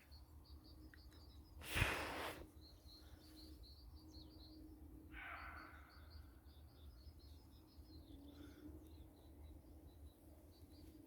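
Roe deer barking: one loud, harsh bark about two seconds in and a fainter one around five seconds in, with small birds twittering high in the background.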